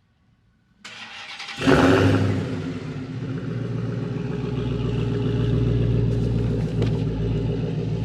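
Dodge Challenger Hellcat's supercharged V8 being started: a short crank, then it catches with a loud rev flare and settles into a steady, loud idle.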